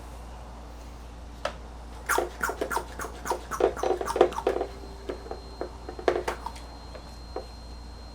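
Small tools and parts being handled on a workbench: a quick run of clicks, clacks and rattles lasting a few seconds, then a few single clicks.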